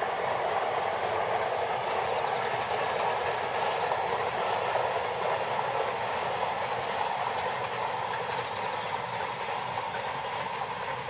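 Container freight train running along the line at a distance, a steady rumble of wheels on rails that eases slightly near the end.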